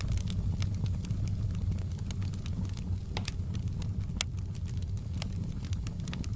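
A wood fire crackling in a fireplace: irregular sharp pops and snaps over a steady low rumble.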